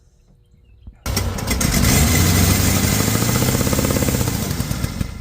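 1985 Dodge engine catching about a second in and running briefly with a rapid pulsing exhaust, its speed rising then sagging before it cuts out suddenly near the end as it runs out of fuel. A really bad exhaust leak makes it sound like a rod knock, though the owner says it is not knocking.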